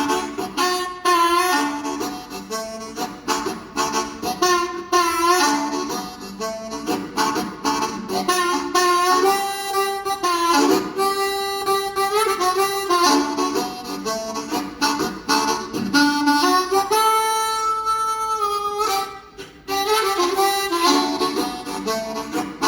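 Solo harmonica playing an instrumental break: runs of notes and chords with bent notes, and one long held chord about seventeen seconds in.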